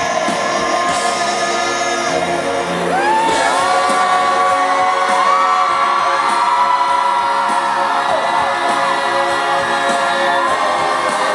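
Pop band playing live, with long, held, wordless sung notes that glide up and down over the music, and whoops from the crowd.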